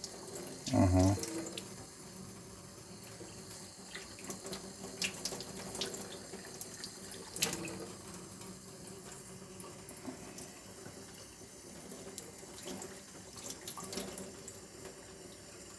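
Water tap running into a sink in a steady stream, with a few small clicks and splashes. The tap is left running because the water is still too warm and has not yet cooled.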